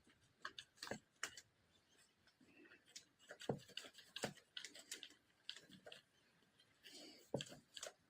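Faint, irregular clicks and light taps.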